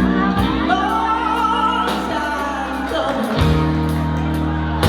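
A woman singing a melody with long, gliding held notes over a backing track of sustained bass notes and light percussion.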